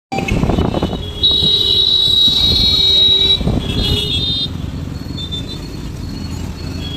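Road traffic noise with a vehicle horn honking: one long honk held about two seconds starting a little after a second in, then a shorter honk.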